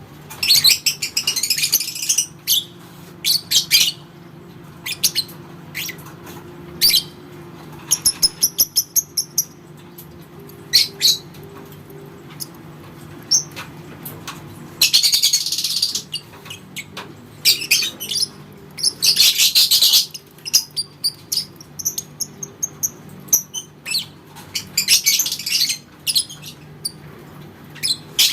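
Lovebird calling, with repeated high, rapid chattering trills about a second long, the 'ngekek' sustained trill bred for in song contests, broken up by short sharp single chirps.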